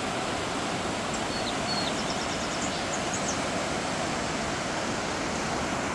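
Steady outdoor rushing noise with a few faint, short bird chirps and whistles between about one and three seconds in.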